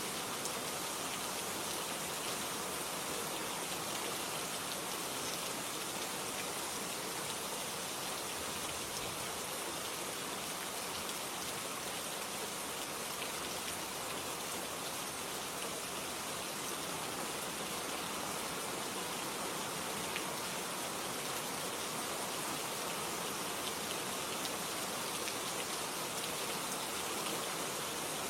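Steady rain falling on a surface, an even hiss with many small drop patters and no change in intensity.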